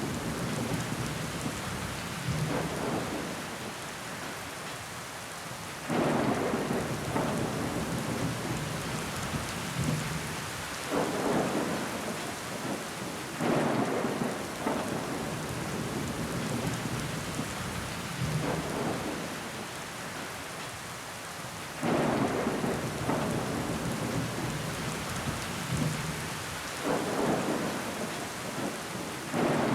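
Rain falling steadily against a window pane, with water trickling down the glass. Heavier surges of rain come in suddenly every few seconds and fade again.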